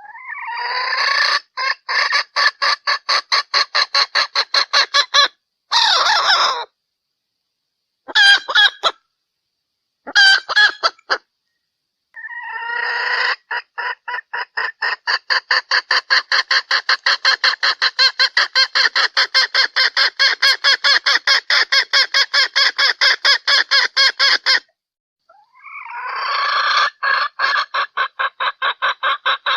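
Junglefowl hen calling with fast, evenly repeated clucks, about six or seven a second, in long runs broken by abrupt silent gaps. It is a recorded hen call used as a lure to draw in cock junglefowl.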